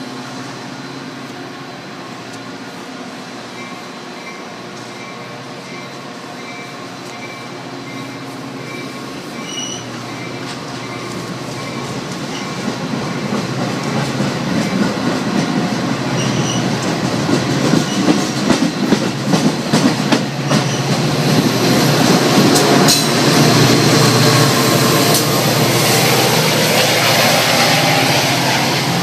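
Metra diesel commuter train pulling out of the station past the platform. The engine drone and rail noise grow steadily louder over the second half, with a run of sharp wheel clicks and squeals about two-thirds of the way in.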